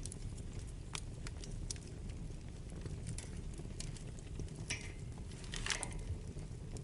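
Wood fire burning in a fireplace: a steady low rumble of flames with scattered sharp crackles, and two louder hissing pops about five and six seconds in.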